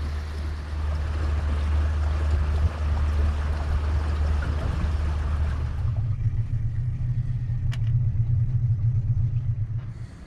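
Boat motor running under way with a steady low rumble and a rush of water and wind noise over it. About six seconds in, the rushing noise drops away and the engine note shifts slightly higher, with a single click a couple of seconds later.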